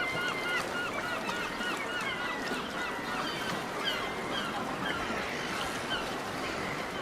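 Birds calling: a rapid series of short, repeated calls, several a second, over steady background noise.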